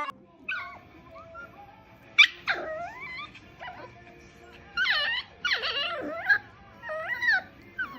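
A dog whining and yelping in short, high, wavering calls, about four times over several seconds.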